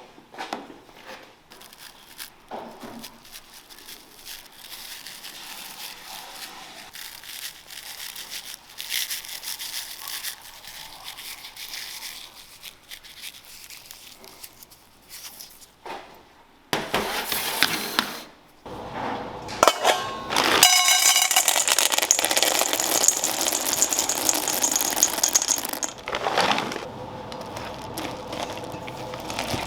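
Food-preparation sounds in a small donut shop kitchen: scattered clinks, scrapes and rattles of utensils and equipment, then a loud steady hiss for several seconds in the second half.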